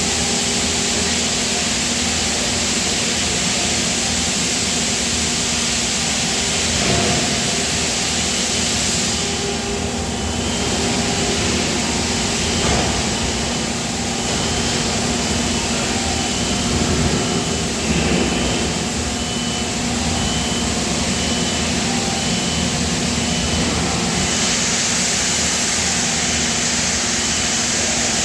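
Steady industrial machinery noise with a constant hum and hiss, from die casting plant machinery running. About ten seconds in, a high electronic beep starts repeating at an even pace, under once a second.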